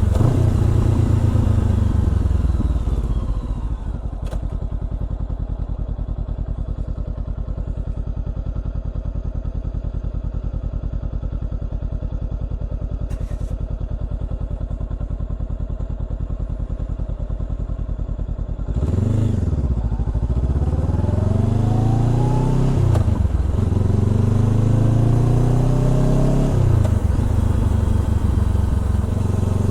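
Honda CBR400R's parallel-twin engine through a Trick Star Ikazuchi exhaust: it runs down from speed and sits at a steady idle for about fifteen seconds. Near the two-thirds mark it pulls away hard, revving up through several gears with a drop in pitch at each upshift.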